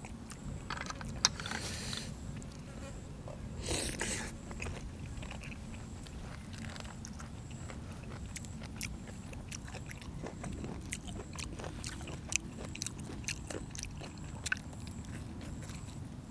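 A person eating close to the microphone, a meal of boiled apple snails with raw vegetables: chewing and crunching with many small sharp clicks, and two brief louder noisy rushes in the first few seconds.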